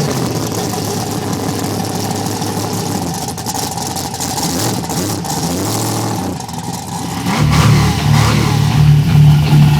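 Motocross dirt bike engine revving up and down. About seven seconds in, a louder, steady low sound takes over.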